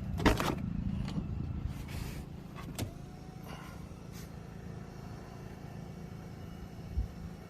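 A car running, heard from inside, with a steady low hum. A loud knock sounds just after the start, a small click a little before halfway, and a low thump near the end.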